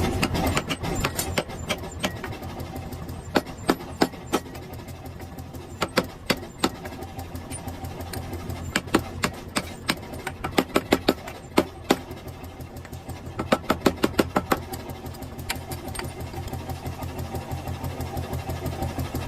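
Hammer blows on a hot steel axe head as its eye is trued, coming in quick bursts of strikes with lighter ticks between, over a steady low machine hum.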